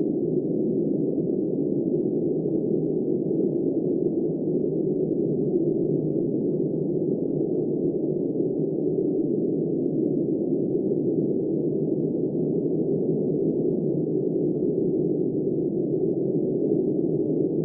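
Blizzard wind blowing in a steady, muffled, low rush, with no gusts or rises.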